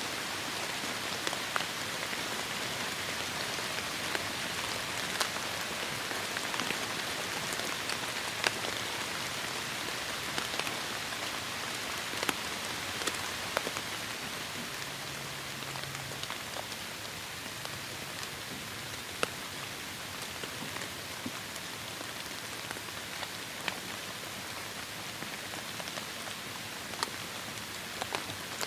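Heavy rain falling steadily, a dense hiss with individual drops ticking sharply on a surface, easing slightly around the middle.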